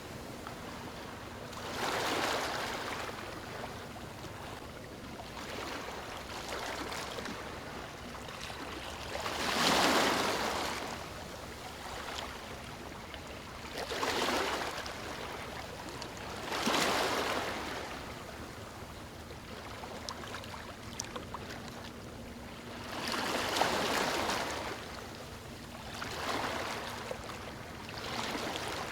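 Small waves breaking and washing onto a beach. Surges of rushing water rise and fall every few seconds over a steady wash.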